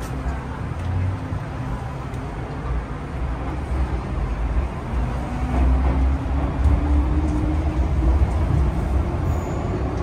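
MTR M-Train electric metro train running, a steady low rumble with a faint motor tone that rises slowly in pitch from about halfway through.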